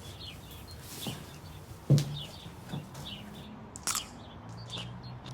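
Small birds chirping repeatedly in short high calls, with a few brief knocks, the loudest about two seconds in.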